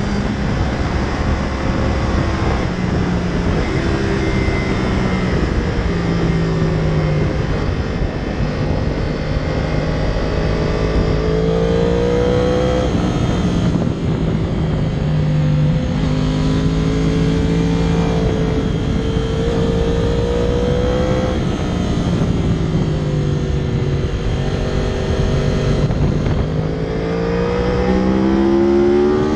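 2014 Yamaha YZF-R1's crossplane inline-four engine at track speed, heard from on the bike. Its note climbs under acceleration and falls back a few times as the throttle closes.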